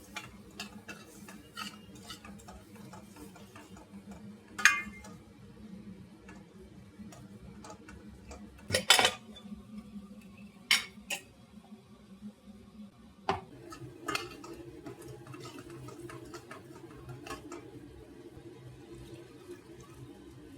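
Kitchen utensils clinking and knocking against dishes and pans: a string of sharp clinks and knocks, a few louder than the rest, over a low steady hum.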